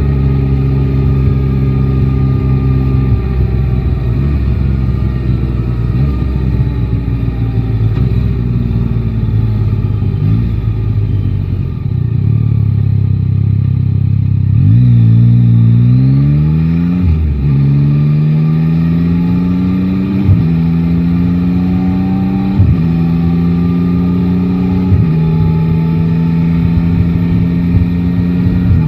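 Motorcycle engine of a Yamaha Tracer 9 GT, an 890 cc inline-three, heard from the rider's seat. It runs steadily at first, then eases off for several seconds. About halfway through it pulls away, its pitch climbing in each gear, with four upshifts roughly every two to three seconds.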